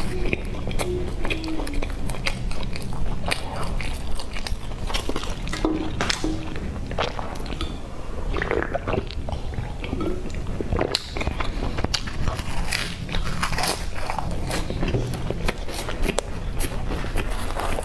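Close-miked chewing and biting of soft glazed bread rolls: wet mouth sounds and many small clicks, with a drink from a can partway through. A low steady hum runs underneath.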